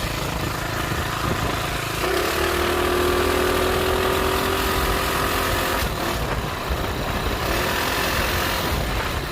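Coleman CT200U-EX minibike's small single-cylinder engine running under way. It picks up speed about two seconds in, holds a slowly rising pitch, then eases off around six seconds.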